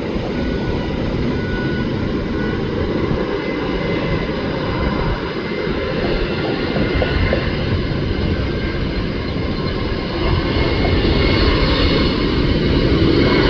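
Jet airliner engines running with a steady roar and a faint whine on top, growing louder over the last few seconds as the aircraft comes closer or powers up.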